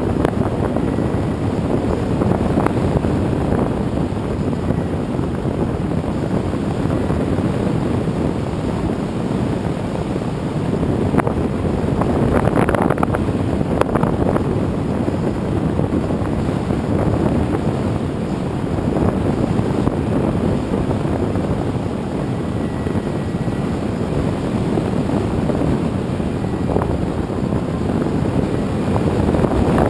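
Steady rush of wind and propeller noise picked up by a camera riding on a radio-controlled aerial-filming airplane in flight, swelling briefly now and then.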